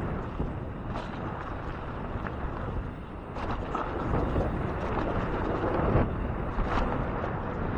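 Riding sounds of a 2014 Transition Covert 26-inch mountain bike going down a dirt jump line: a steady rush of wind on the microphone and knobby tyres rolling on dirt, with a few knocks and rattles from the bike over bumps and landings.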